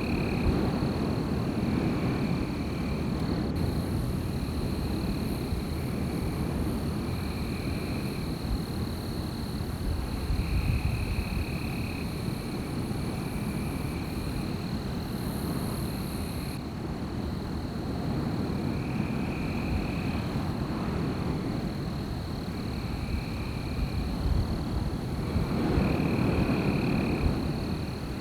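Wind blowing through forest trees in gusts that swell and ease, strongest about ten seconds in and again near the end. Behind it runs a constant high thin trill, and shorter trilling calls of a second or two repeat every few seconds.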